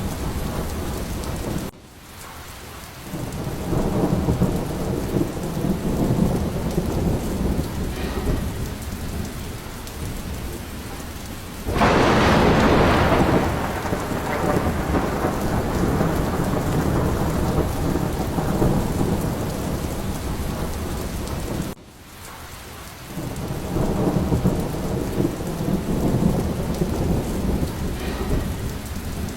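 Steady heavy rain with rolling thunder. A sharp thunderclap breaks about twelve seconds in and fades slowly. Twice the sound drops suddenly, then thunder rumbles build again.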